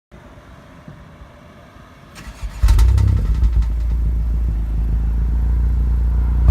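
10th-gen Honda Civic Si's 1.5-litre turbocharged four-cylinder, breathing through a Greddy Supreme SP exhaust, starting up. A brief crank about two seconds in, then it catches loudly and settles into a steady idle.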